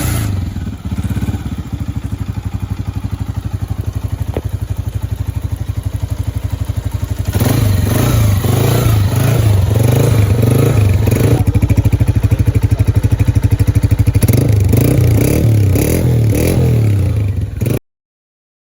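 Honda CG 125's single-cylinder four-stroke engine running after a top-end rebuild. It idles with an even beat, then is held at a faster, louder speed from about seven seconds in, until the sound cuts off suddenly near the end.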